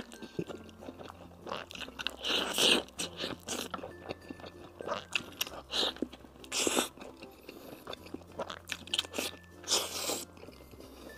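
Biting and chewing a crispy fried chicken-cutlet burger with sweet-spicy turkey noodles: crunchy bites and wet chewing, with three loudest crunches about two and a half, six and a half and ten seconds in.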